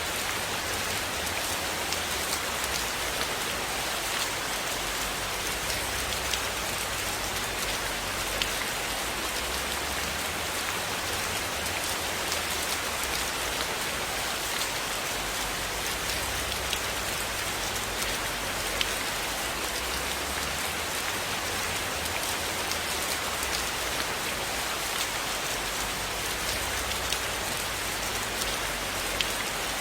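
Steady rain falling in an even hiss, with scattered sharp drip ticks and a low rumble underneath.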